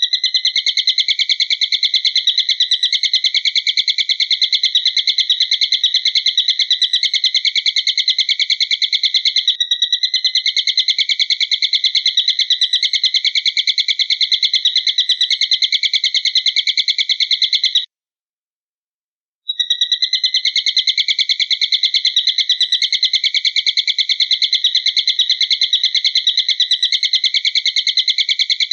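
A bird-training recording billed as an eagle's call: a loud, high, rapidly pulsing trill held at an even pitch without a break. It stops for about a second and a half a little past the middle, then starts again unchanged, like a looped track.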